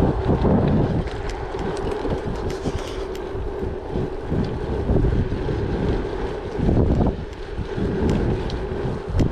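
Gravel bike riding: tyres rumbling over gravel with a steady hum, scattered small clicks and rattles from stones and the bike, and wind buffeting the microphone in gusts.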